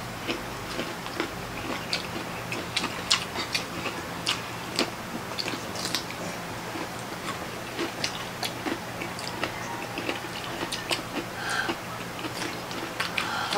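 Close-up eating sounds: crunchy bites into fresh cucumber slices and chewing, with many short wet mouth clicks several times a second, over a faint steady low hum.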